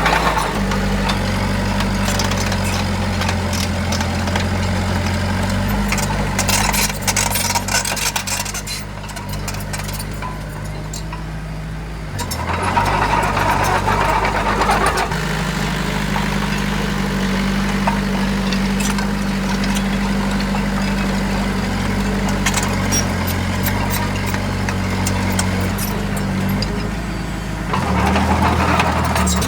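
Heavy diesel engine of construction machinery running under varying load, its pitch stepping up and down several times, with clusters of metallic clanks and rattles about six to nine seconds in.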